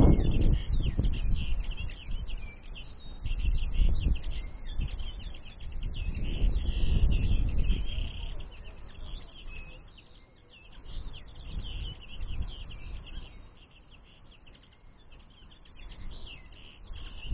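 Common linnets twittering, a rapid stream of short chirps. Wind buffets the microphone in gusts.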